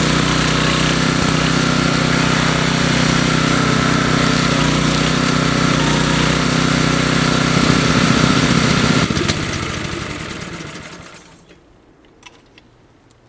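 DR brush mower's 10.5 hp Briggs and Stratton I/C engine running steadily, then shut down about nine seconds in and winding down to a stop over about two seconds. A few faint clicks follow.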